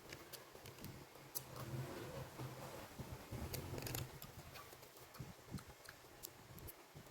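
Faint eating sounds: someone chewing bread, with soft mouth noises and a few sharp crackly clicks. A low murmur comes in the middle.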